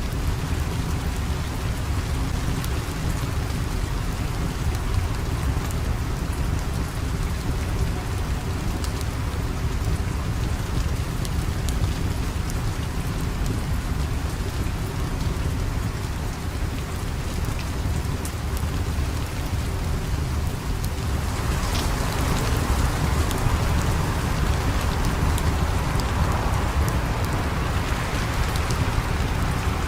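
Steady heavy rain with a deep low rumble and faint scattered clicks. About two-thirds of the way through, the rain grows louder and brighter.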